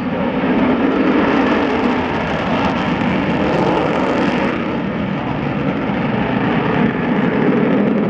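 Avro Vulcan jet bomber passing in a flying display, its four Rolls-Royce Olympus turbojets making a loud, steady jet noise, with the hiss growing brighter for a moment about halfway through.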